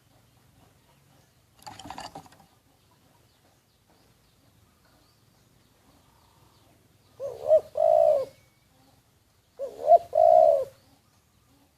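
Caged spotted dove cooing: two phrases, each a couple of short notes followed by a longer coo. A shorter, rougher call comes about two seconds in.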